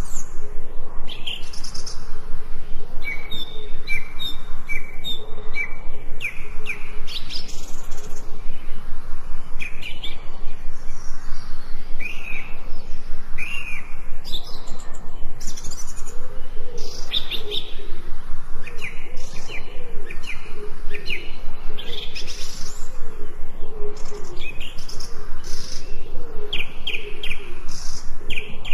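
Several forest birds singing and chirping together in a dense, continuous chorus of short whistled notes. A run of evenly repeated clear notes stands out in the first few seconds, and a lower, softer warbling runs underneath through the middle.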